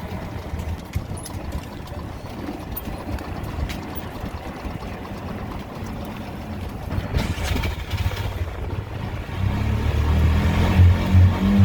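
A motor engine running with a low rumble that grows louder from about nine seconds in.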